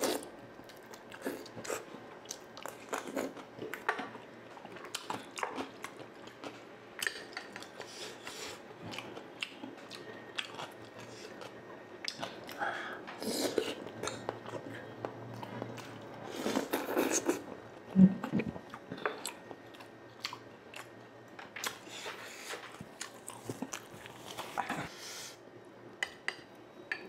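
Close-up eating sounds of a person biting into and chewing deep-fried, orange-battered eggs (kwek-kwek and tokneneng): soft crunches of the batter with many wet mouth clicks and smacks. One sharper knock about two thirds of the way through is the loudest sound.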